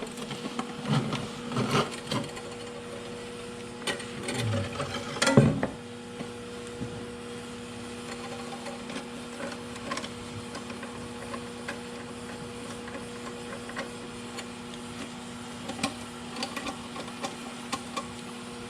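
A steady mechanical hum, with scattered light clicks and knocks and a brief louder clatter about five seconds in.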